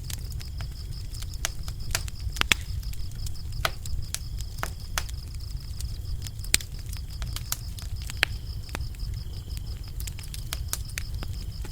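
Wood fire crackling with irregular sharp pops, the loudest a few seconds in and again past the middle, over a low rumble of the flames. Crickets chirp steadily in the background.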